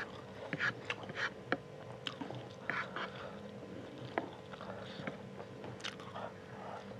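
Close-up chewing of fried instant noodles and sausage pieces: irregular wet mouth clicks and smacks, a few a second at the start and sparser later, over a faint steady hum.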